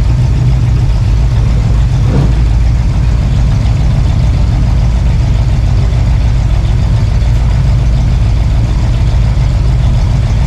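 A car engine idling steadily with a deep, even low rumble.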